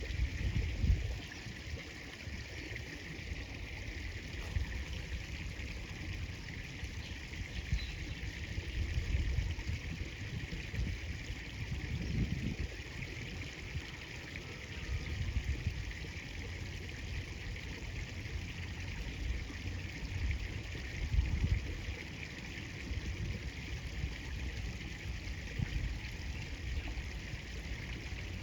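River water flowing steadily, a constant hiss, with a few low rumbles at the microphone near the start and again about halfway through.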